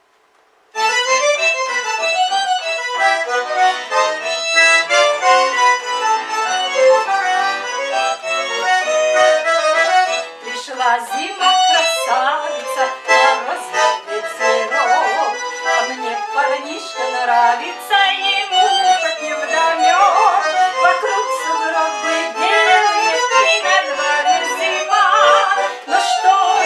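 Accordion playing the instrumental introduction of a song, melody and chords together, starting about a second in.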